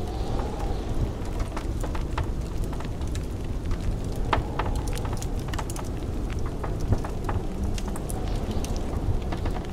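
Wood fire crackling, with many irregular sharp pops, over a steady low rumble of blizzard wind.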